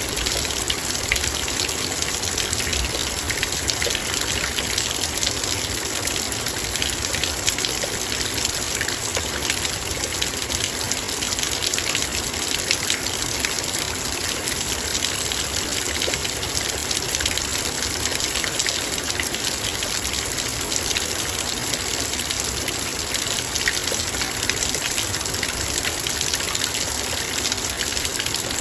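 Heavy rain falling steadily, with dense fine patter of raindrops striking a metal bowl over the rush of the downpour.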